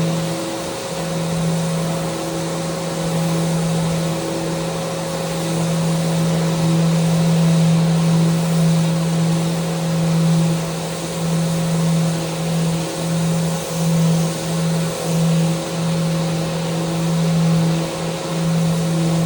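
Electric sander running against a wooden handrail, a steady motor hum over the hiss of abrasive on wood. In the second half the sound dips and swells about once or twice a second as the sander is worked back and forth along the rail.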